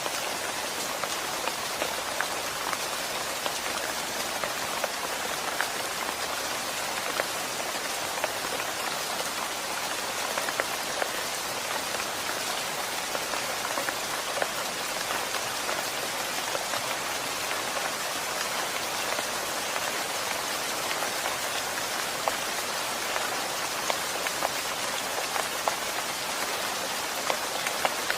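Steady rain falling on a surface, a dense even hiss dotted with many small drop ticks.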